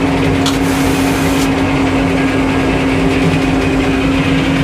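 Engine running steadily with an even hum. A brief hiss comes in about half a second in and lasts about a second.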